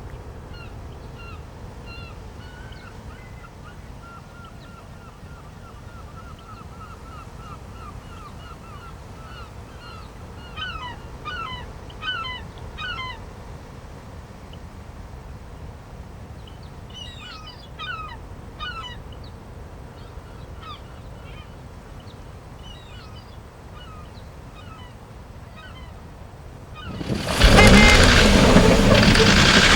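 Small birds chirping: a long run of short repeated calls, then two brief bursts of quick sweeping chirps. About 27 seconds in, a jeep engine comes in loud and keeps running.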